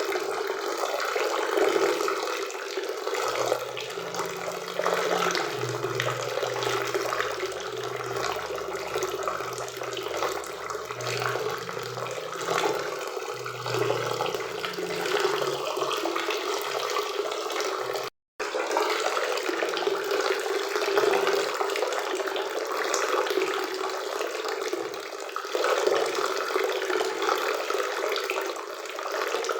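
Steady rushing of a forest waterfall and river, an even, continuous water noise. It cuts out to silence for a split second about two-thirds of the way through.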